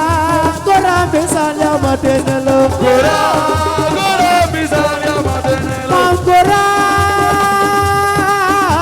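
Assiko music: a wavering melodic vocal line over a steady drum beat, with one long held note in the second half.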